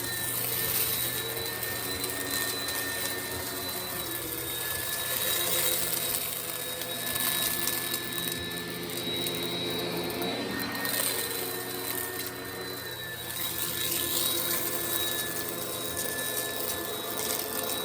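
Oreck XL upright vacuum cleaner running on carpet: a steady high whine over a motor hum whose pitch shifts now and then, with the crackling crunch of kitty litter being sucked up out of the carpet.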